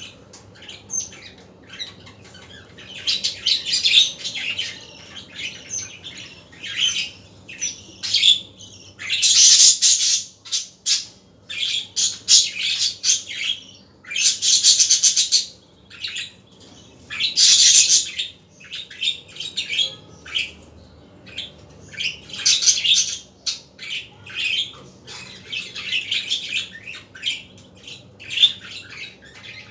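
Pet budgerigars chattering with rapid short chirps and warbles, broken by three loud harsh squawks about a second long each.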